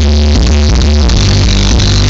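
Loud electronic dance music with heavy, booming bass, played through a custom-built car audio system. The bass line shifts about a second in.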